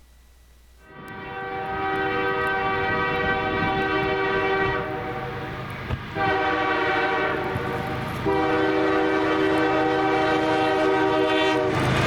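Diesel locomotive's multi-chime air horn sounding a sequence of blasts for an approaching freight train: a long blast, a brief short one near the middle, then two more long blasts, the last one held longest.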